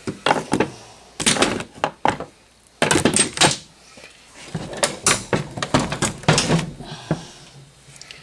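Metal engine parts and tools knocking and clattering in quick groups of sharp clunks, as the engine is worked on during a teardown.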